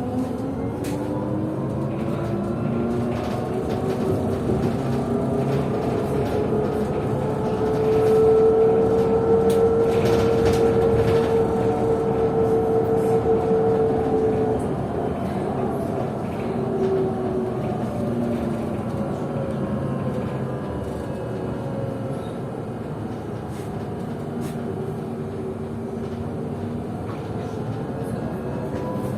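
Traction drive of a PKTS-6281.01 'Admiral' trolleybus, an IGBT inverter feeding a DTA-3U1 AC motor, whining in step with its speed. The pitch climbs at first, holds steady and loud for several seconds, then fades and drops away, and begins to climb again near the end. A steady road and body rumble runs underneath.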